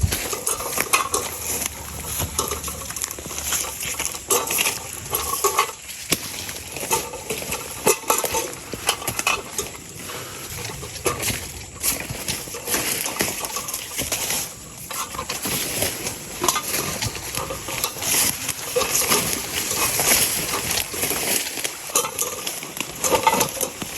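Footsteps crunching through dry leaf litter and a body brushing through forest undergrowth: irregular crackling rustles with no steady rhythm.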